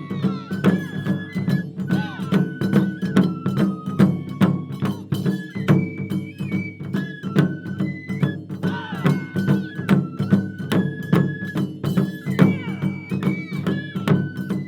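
Japanese taiko ensemble drumming in quick, steady strokes under a high melody of held notes on a bamboo flute (shinobue).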